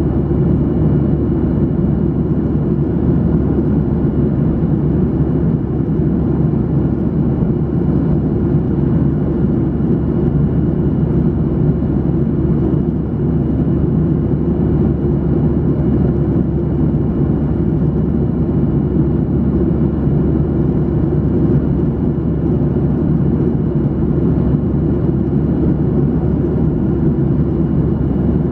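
Steady cabin noise inside a Boeing 737-800 in flight: the even rumble of its CFM56 turbofan engines and airflow over the fuselage, with a few faint steady whines above it.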